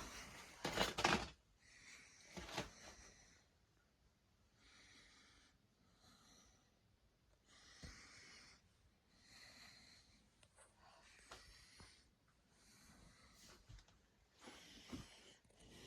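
A person breathing heavily in slow, separate breaths, one every second or two, with a few knocks in the first few seconds.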